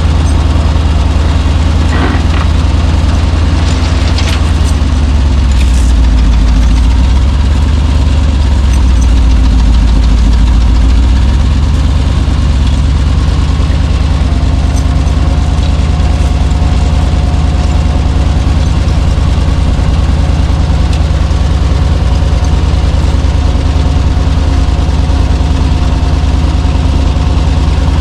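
Chevrolet C60 wrecker's engine running at idle. Its note dips lower and louder for several seconds about a quarter of the way in, then settles back to a steady idle, with a few light knocks near the start.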